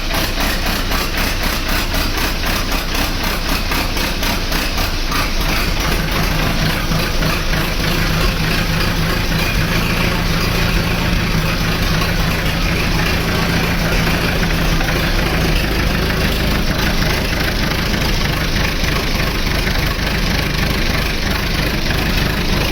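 A 1942 standard Fordson tractor's four-cylinder side-valve engine idling steadily just after starting, warming up on petrol before being switched over to TVO.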